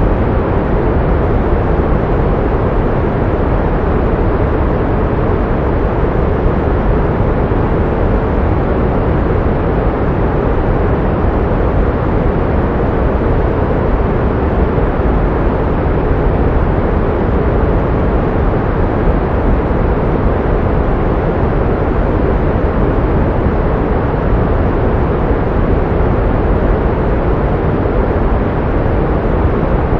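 Pink noise: a steady, unchanging hiss, weighted toward the low end and fading off in the highs.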